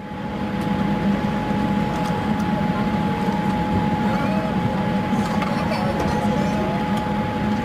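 Steady airliner cabin noise inside a Boeing 787-8: a loud, even hum of air and machinery with two steady tones above it.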